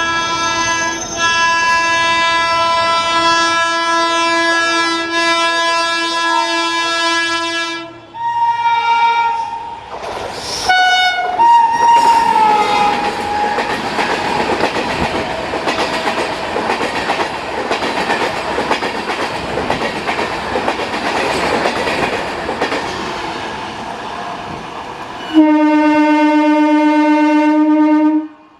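Indian Railways WAP-7 electric locomotive sounding a long multi-note air horn on approach, then more horn notes that drop in pitch as it passes, around 12 seconds in. Its coaches then rattle past over the rail joints, and another loud horn blast sounds near the end.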